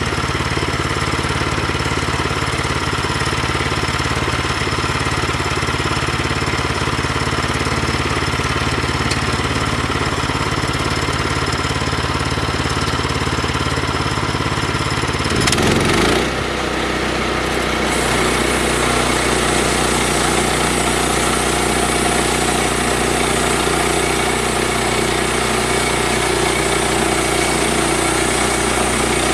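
An engine running steadily. About sixteen seconds in, its sound shifts with a brief sweep in pitch, then it runs on steadily with a different tone.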